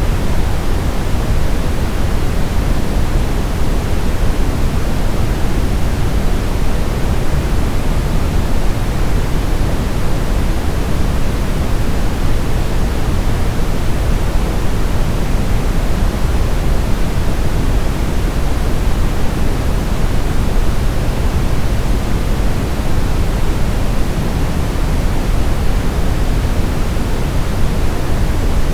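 Steady sleep-aid noise, a continuous even hiss with no rhythm or change, deeper than pure white noise, its weight in the low end.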